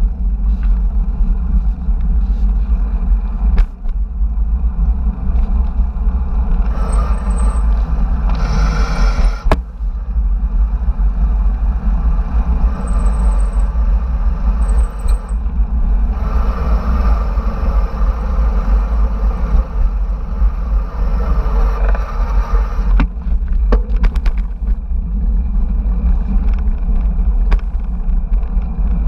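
Wind rumbling on the microphone of a camera riding along on a moving bicycle, with road noise that swells into a louder hiss twice: about a quarter of the way in, and again in the middle.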